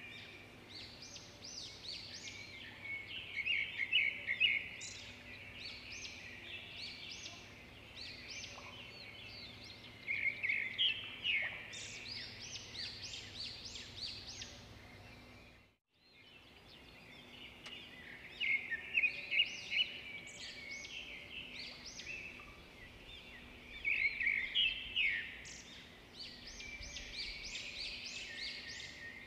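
Several songbirds singing and chirping in quick, repeated phrases over a faint steady background, with a brief drop to silence about halfway through.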